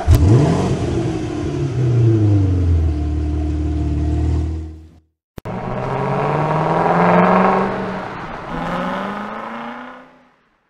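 Car engine revving: it bursts into a sharp rev that settles to a steady, lower pitch, then cuts off about five seconds in. It comes back rising in pitch as it accelerates, dips briefly and climbs again before fading out.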